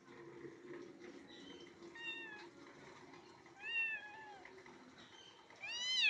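Kitten meowing: three high-pitched meows, about two seconds in, around four seconds and near the end, the last one the loudest.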